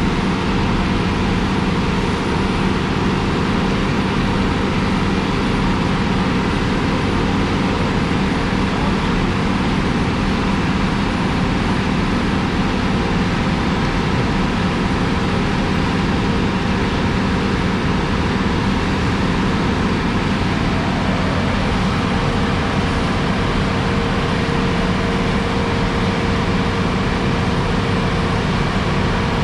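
Heavy diesel paving equipment running steadily, with a constant engine hum under a wash of machine noise; the pitch of the engine drone shifts about twenty seconds in.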